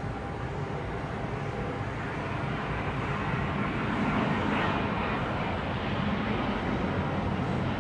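Jet airliner engines, the noise swelling about three to four seconds in and staying loud.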